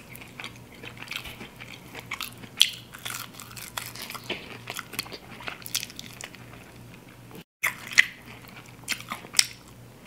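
Fried chicken wings being bitten and chewed close to the microphone: scattered small crackles, crunches and wet mouth clicks over a faint low hum. The sound cuts out briefly about seven and a half seconds in.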